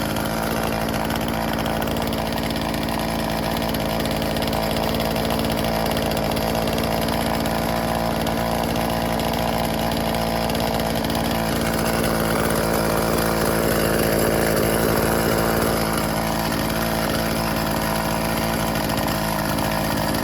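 Stihl FS36 string trimmer's two-stroke engine running steadily at idle after its carburetor mixture screws were adjusted, then stopping abruptly at the very end.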